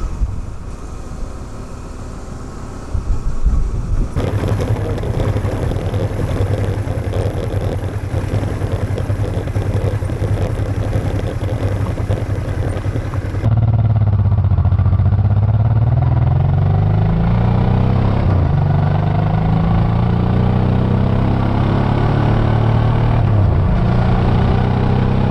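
Honda Transalp XL650V's V-twin engine running under way, with road and wind noise over it. About halfway through the sound changes abruptly and the engine note dips, then climbs again as the bike picks up speed.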